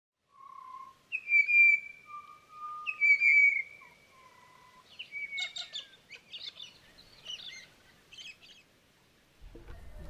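Birds singing: clear whistled notes, the two loudest about one and three seconds in, then a quick run of short chattering notes that stops near the end.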